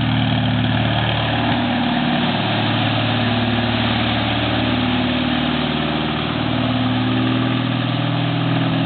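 Pulling tractor engine running steadily near idle, its pitch drifting slightly up and down.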